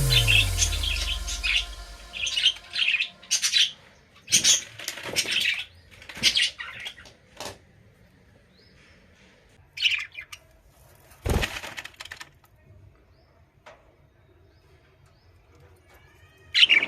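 Small pet birds flapping and fluttering their wings in short, sudden bursts, with faint chirps and a louder call near the end. Background music fades out in the first couple of seconds.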